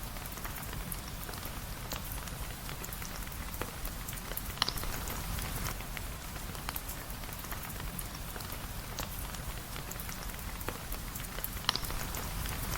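Steady rain with many small drop taps over a low rumble, and two sharper pops, one about a third of the way through and one near the end.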